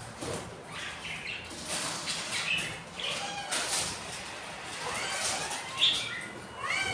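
Budgerigars chirping in short, repeated curved calls, with wing flapping among them.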